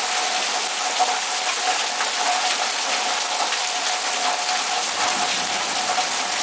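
Heavy thunderstorm rain pouring down steadily as an even hiss, with scattered sharper drop hits.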